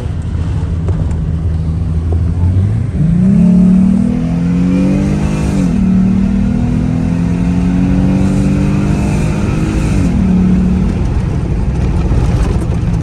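Jeep truck's engine pulling away and accelerating: it runs low at first, revs up about three seconds in, then climbs and drops back twice as the transmission shifts up, over a steady low rumble of the drive.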